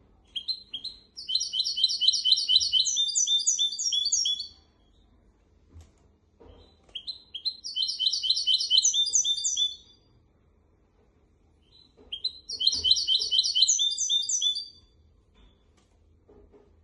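Hybrid finch singing: three phrases of rapid, repeated high trilled notes, each lasting about three to four seconds, with short pauses between them.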